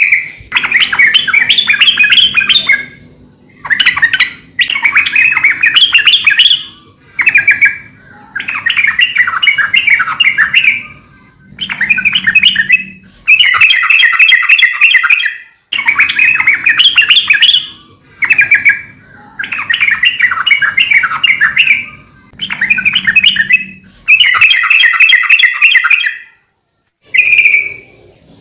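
Yellow-vented bulbul (trucukan) singing loudly and continuously: a run of bubbly, chattering phrases, each a second or two long, with short pauses between them.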